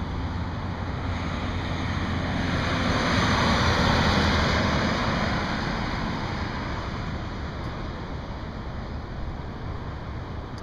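A vehicle passing on the highway: tyre and road noise swells to a peak about four seconds in, then fades away, over a steady low rumble of traffic.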